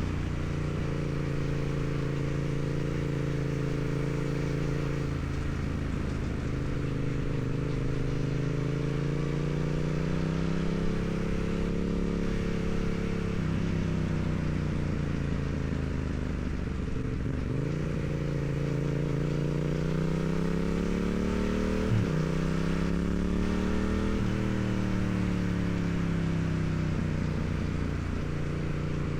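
Yamaha MT-07's parallel-twin engine running through its stock exhaust while riding, the engine note rising under throttle and falling back several times, with quick drops in pitch like gear changes.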